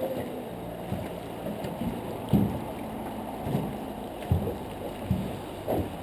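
Water lapping and sloshing against the hull of a boat, with several soft, irregular knocks.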